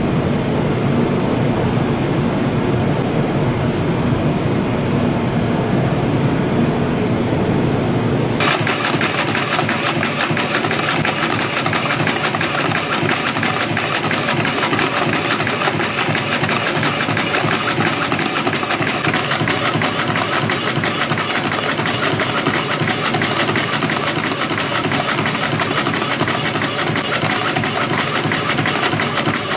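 CNC spring coiling machine running, feeding and coiling 0.7 mm wire into compression springs with a steady, fast mechanical clatter. About eight seconds in the sound changes, turning brighter and more rattly with a rapid ticking.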